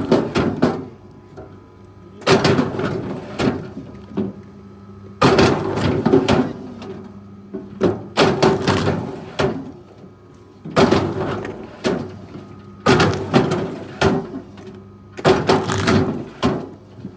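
A machine running with a steady hum, with a loud clattering knock about every two to three seconds, six times in all.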